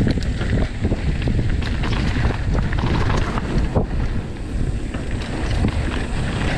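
Wind buffeting the microphone of a camera on a moving mountain bike, a loud low rushing with many short knocks and rattles from the bike running over rough trail.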